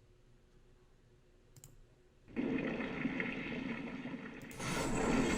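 A single click, then about two seconds in the underwater-themed Razor Shark slot game starts a loud rushing, water-like sound effect that swells again near the end.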